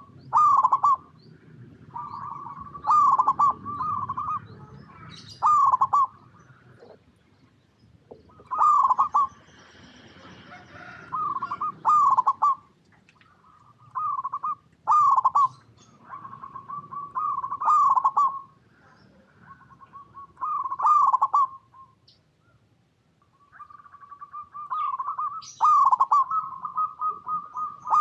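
Zebra dove (perkutut) cooing: short phrases of quick, trilled coos repeated every few seconds, with a held coo between some phrases.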